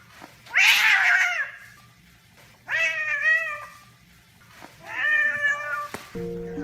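A cat meowing three times, each meow about a second long with a pause between. Steady music tones come in near the end.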